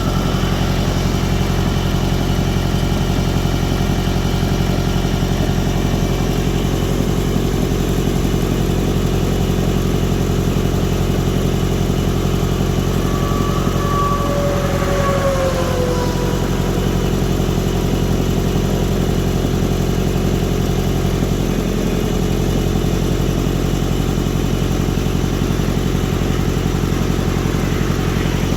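A diesel engine running steadily, with a brief falling whine about halfway through.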